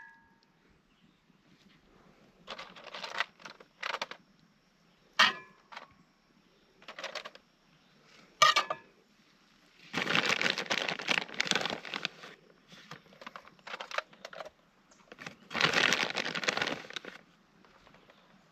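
Plastic food packaging crinkling and rustling while it is handled, in two longer stretches, with a few sharp metallic clinks between them.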